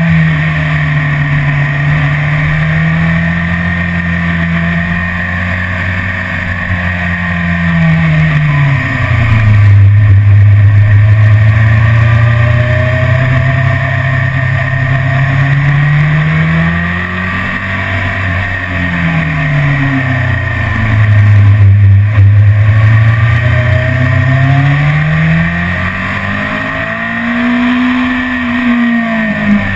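BMW S1000RR's inline-four engine running hard on track. Its pitch falls and rises several times, and it is loudest around the two low-pitch stretches about a third and three quarters of the way through.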